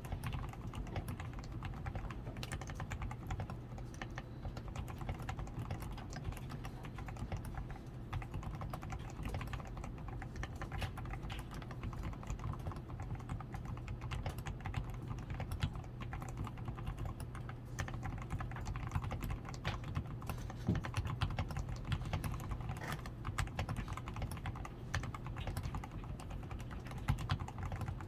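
Continuous typing on a DAREU A87 Pro mechanical keyboard, a quick, unbroken stream of keystrokes. Its switches and stabilizers are fully lubed with Krytox 105, the PCB is tape-modded, the switches have foam-ron reinforcement, and it wears XDA keycaps.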